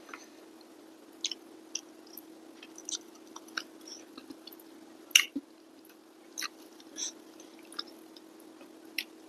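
Close-miked person eating rice and steamed fish: wet chewing with scattered lip smacks and mouth clicks, the loudest about five seconds in, over a faint steady hum.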